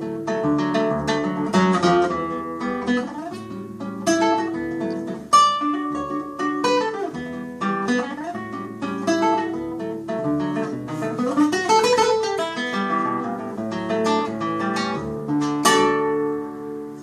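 Solo classical guitar playing a fingerpicked choro: a quick melody over plucked bass notes. It closes on a final chord struck near the end and left to ring.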